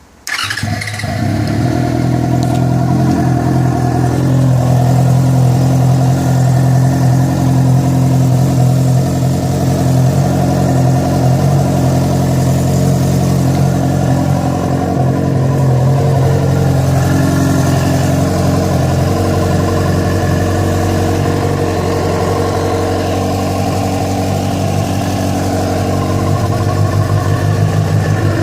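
Yamaha FZ6's inline-four motorcycle engine starting just after the beginning, then running steadily with a strange noise. The noise began after the bike was ridden about 70 km on two cylinders because of a failed ignition coil connector.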